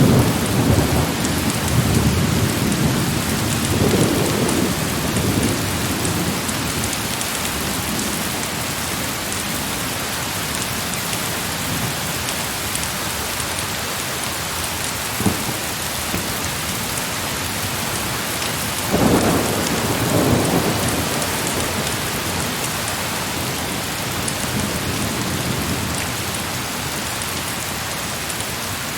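Steady heavy rain, with low rolls of distant thunder: one fading over the first few seconds, another about nineteen seconds in. A single sharp crack about fifteen seconds in.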